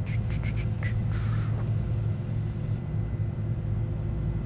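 Steady low rumble of a Gulfstream G-IV's cockpit in flight. A few short, sharp blips come in the first second, then a brief hiss.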